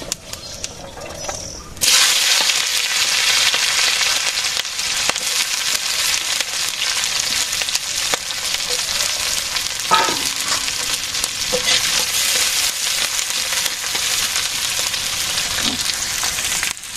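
Sliced onions and green chillies hitting hot oil in a metal kadai: a sizzle starts suddenly about two seconds in and carries on steadily as they fry. A spatula stirs them, with one sharp clink on the pan about ten seconds in.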